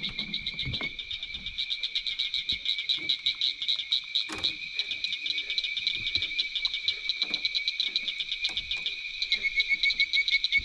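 Night-time swamp chorus of frogs calling together in a steady, fast pulsing trill, with a single sharp click about four seconds in.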